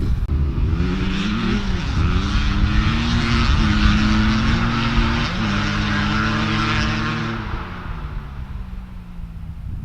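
Single small off-road engine revving and shifting up through the gears, its pitch climbing and dropping several times, then falling away near the end. Low wind rumble on the microphone underneath.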